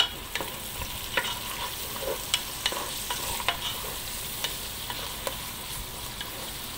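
Chopped carrot, tomato, capsicum and curry leaves sizzling in hot oil as a wooden spatula stirs them around a pot: a steady sizzle with irregular knocks and scrapes of the spatula against the pot.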